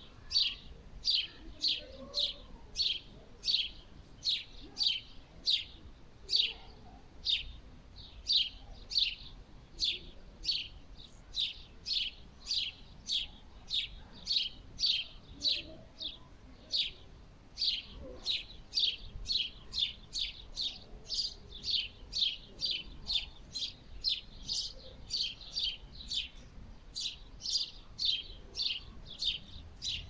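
A bird calling one short, high chirp over and over, about two a second and very regularly, with only brief pauses. A faint low rumble lies underneath.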